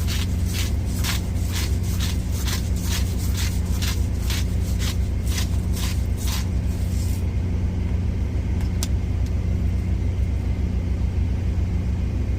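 Salt shaken onto food in quick, even shakes, about three a second, stopping about seven seconds in, followed by a single sharp click near nine seconds. Underneath runs a steady low drone, typical of an idling truck engine.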